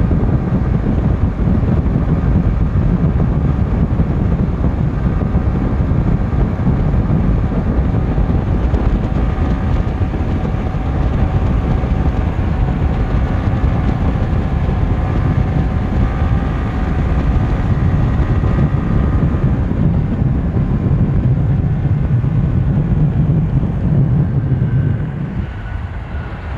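Motorcycle at full throttle at speed: heavy wind rush on the microphone with the engine's steady drone underneath. It drops off about 25 seconds in as the throttle eases.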